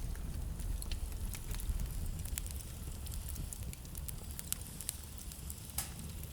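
Wood fire in a fireplace crackling, with scattered sharp pops and snaps over a low, steady rumble.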